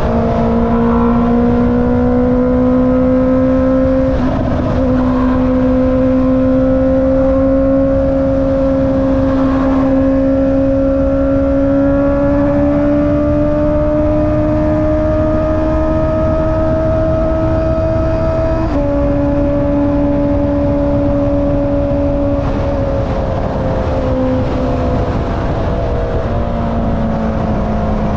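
Honda CB650R's inline-four engine through an Akrapovic exhaust while riding, its pitch climbing slowly under throttle. About two-thirds through the pitch drops sharply as it shifts up a gear, then sinks gradually as the throttle eases off, with wind rush underneath.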